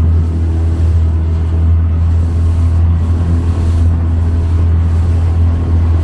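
Motorboat engine running steadily under way, a loud, even low drone.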